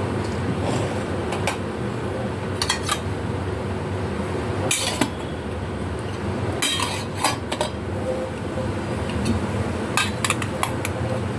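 Metal utensils and cookware clinking and knocking at irregular moments, several sharp clinks in small clusters, over a steady low rumble.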